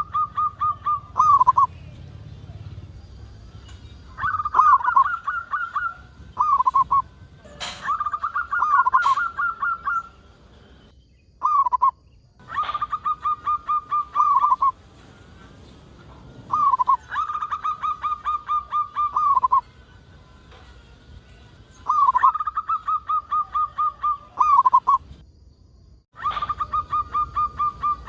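Zebra dove (perkutut) singing: repeated cooing phrases of quick, evenly pulsed notes, each phrase lasting one to three seconds, with short pauses between.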